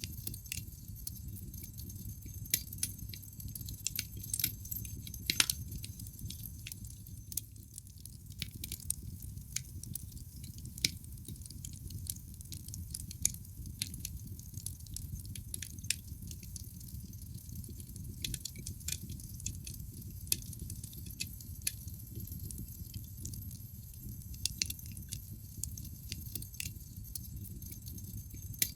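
Wood fire burning in a fireplace: logs crackling with irregular sharp snaps and a few louder pops, over a low steady rumble of the flames.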